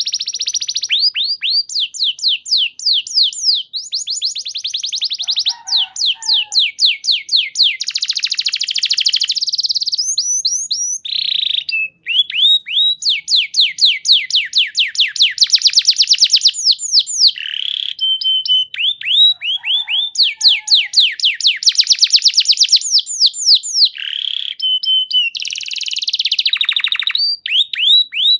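Domestic canary singing a long, continuous song of fast trills of repeated falling notes, switching to a new phrase every second or two with only brief breaks.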